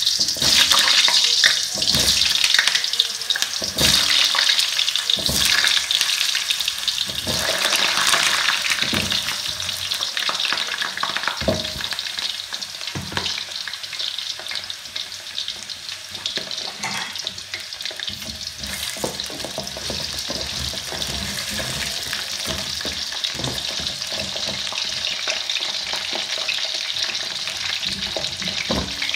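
Whole peeled potatoes frying in hot oil in an aluminium karahi, a crackling sizzle. It is loudest over the first several seconds, with sharp plops and spits as more potatoes go into the oil, then settles to a steadier sizzle.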